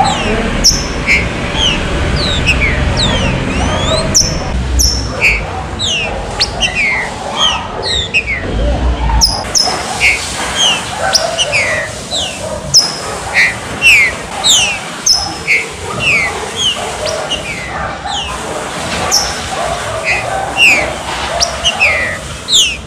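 Green-winged saltators (trinca-ferro) calling and singing: many short, down-slurred whistled notes, repeated quickly and overlapping from more than one bird. A low rumble sits under them for the first nine seconds and then stops.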